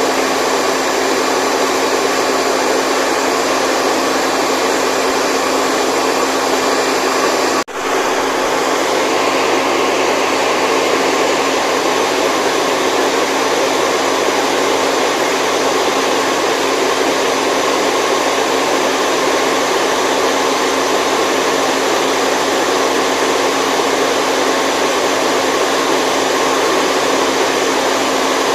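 Steady white noise for a baby's sleep: an even, loud rushing hiss with faint steady hum tones in it, like a running appliance. It drops out for a split second about eight seconds in, then carries on unchanged.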